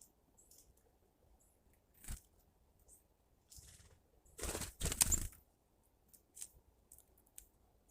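Faint short, high chirps and scratching from small birds, with a short rustle about two seconds in and a louder scraping rustle lasting under a second about halfway through.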